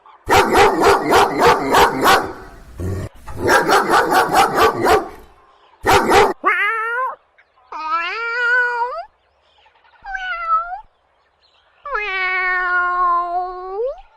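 A dog barking fast in two runs of about four barks a second, then a cat meowing four times, the last meow long and drawn out.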